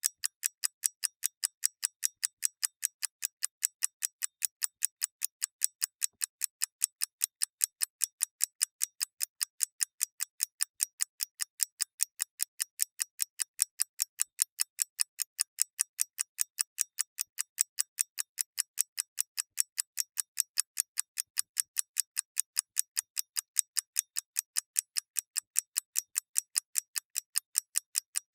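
Clock ticking in a steady, even rhythm of about three sharp, high ticks a second.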